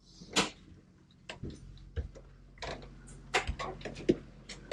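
Irregular light clicks and knocks, about a dozen of them scattered unevenly, over a faint steady low hum.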